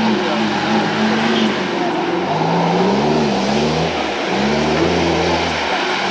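Four-wheel-drive off-roader's engine revving, its pitch rising and falling several times as it is driven through mud.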